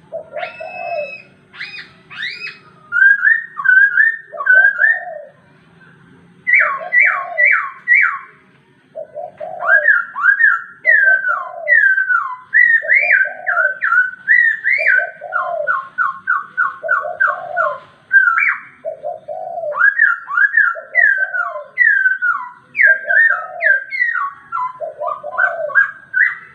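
Poksai (laughingthrush) singing loud whistled phrases of quick sliding notes, some rising and some falling, in varied runs. Beneath them a low cooing note repeats about every second and a half.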